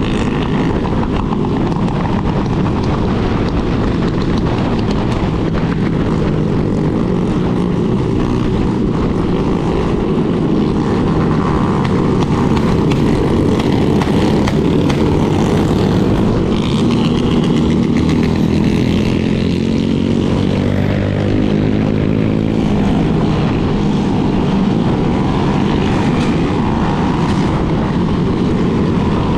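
Motorcycle engines running steadily while riding in a large group, several engine notes rising and falling.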